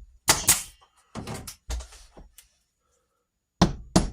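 Sharp knocks and thunks against a wall panel: a close pair early, a few weaker ones after, a pause of about a second, then two more strong ones near the end.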